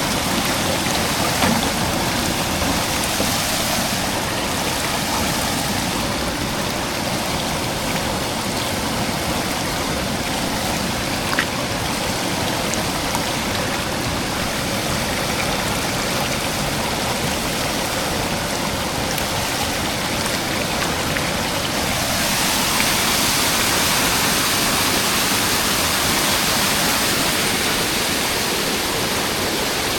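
Steady rushing of water from a waterfall, growing a little louder about two-thirds of the way through.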